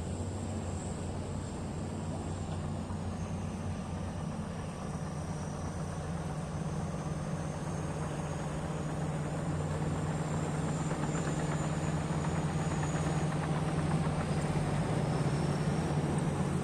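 Heavy diesel earthmoving machine engine running steadily, with a high thin whine that drifts up and down in pitch. It grows a little louder in the second half.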